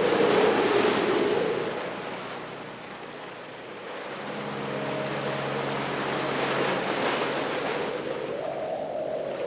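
Ocean surf washing in and receding: a loud surge of breaking waves at first, easing about three seconds in, then building again toward another swell.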